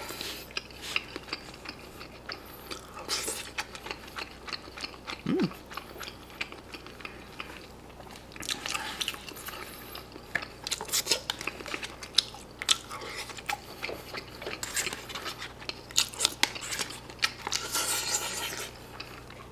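A person chewing close to the microphone while eating a pizza-cheese pork cutlet lunchbox, many small mouth clicks scattered throughout.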